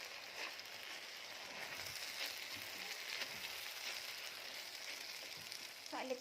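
Rice and browned onion sizzling steadily in oil in a pot as spices are stirred in, with a few faint clicks.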